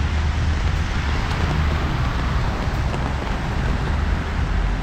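Typhoon rain and gusting wind on a city street, the wind rumbling on the microphone under a steady hiss of rain.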